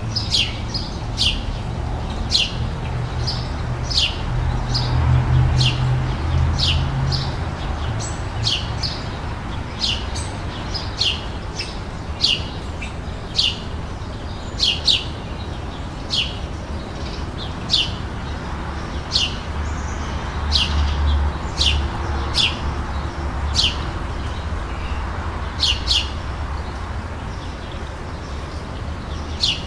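Small birds chirping in a garden: short, high, down-slurred chirps repeated about once a second, some in quick pairs, over a steady low rumble.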